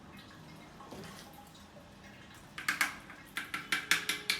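Cement mortar being scooped and packed into the gap around a toilet's base: quiet at first, then a quick run of about seven short, sharp scrapes and clinks over the last two seconds.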